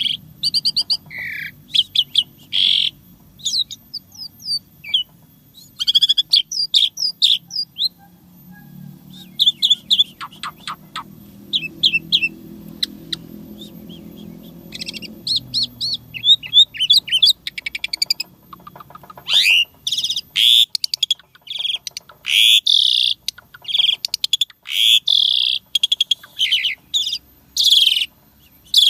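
Asian pied starling (jalak suren) singing a varied song of sharp whistles, chirps and quick trills, busier and louder over the last third.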